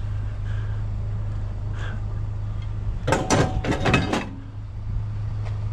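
Vehicle engine idling steadily under a low hum. About three seconds in comes a second-long clatter of knocks and rattles as scrap metal is handled.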